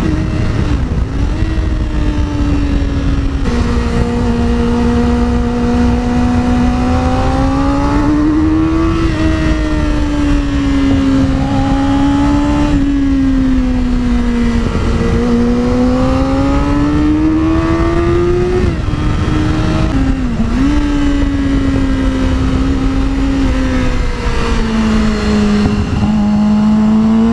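Sport bike engine running at road speed, its pitch rising and falling over several seconds at a time with a few quick drops as the rider shifts, over steady wind rumble on the helmet-mounted camera.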